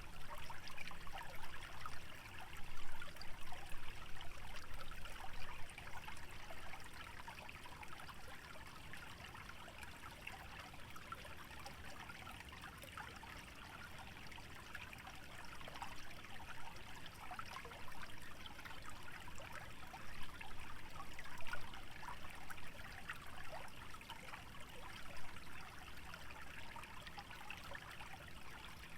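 Small wetland stream trickling and bubbling steadily over its bed, a little louder in the first few seconds.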